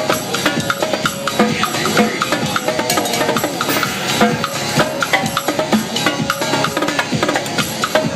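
Live drum-corps-style percussion played with sticks on a Mapex drum kit, a fast, busy run of strikes over loud DJ dance music.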